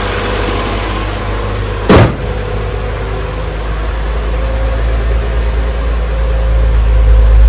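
BMW N55 turbocharged straight-six idling steadily in an E46 after an engine swap, with one loud slam about two seconds in as the hood is shut. The low engine hum slowly grows louder toward the end.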